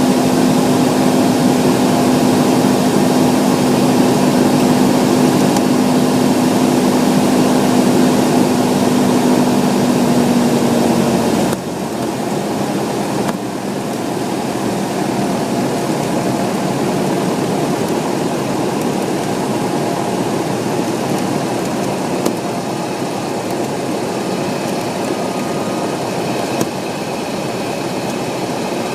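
Light aircraft's engine and propeller droning steadily with a strong steady tone, which drops out suddenly about eleven seconds in as the level falls: power is pulled back for the landing, leaving a lower, rougher drone.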